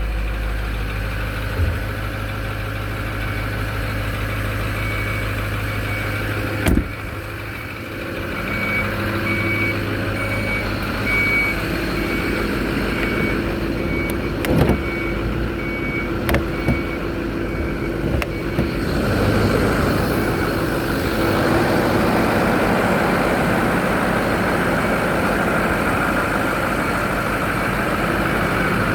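Ford 6.4 L Power Stroke V8 turbo-diesel idling shortly after a cold start. For several seconds in the middle a row of short, evenly spaced beeps runs over it, with a few sharp knocks. From about two-thirds of the way in the engine sounds fuller and louder.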